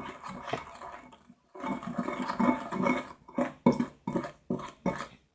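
Homemade dish-soap and toothpaste slime being stirred and squished in a bowl: wet, sticky squelching and scraping in irregular bursts, with short breaks.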